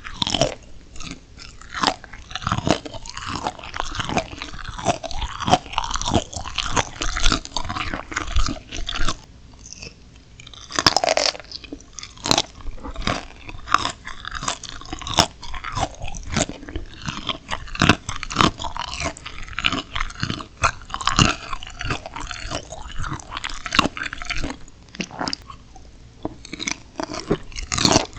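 Close-miked eating: continuous crunchy biting and chewing of steamed shrimp with raw chilli pepper, sharp crunches coming several times a second with brief lulls.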